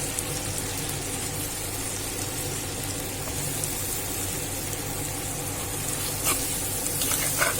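Onions frying in ghee and oil in a cooking pot, a steady sizzle with a low hum underneath. Two light clicks near the end.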